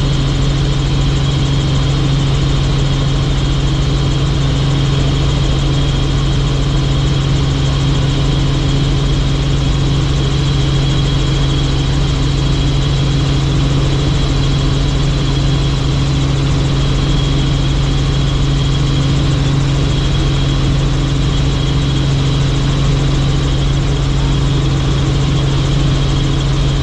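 Helicopter engine and rotor noise: a loud, steady drone with a strong low hum that holds constant throughout.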